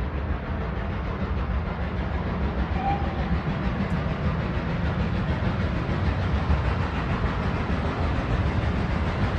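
A train running by with a steady low rumble.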